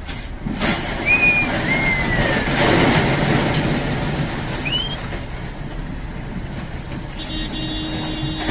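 Road traffic noise: vehicles running, with a few short high squeaks in the first half and a steady high tone starting near the end.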